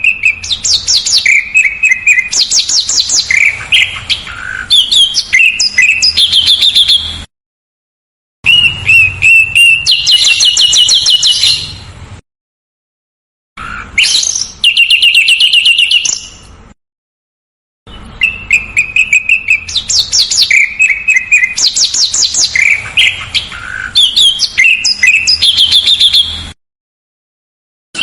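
Recorded songbird song: fast, tight trills and sharp whistled notes in dense phrases. It breaks off several times into sudden dead silence where the recording is cut, and the opening phrase sequence comes round again about eighteen seconds in.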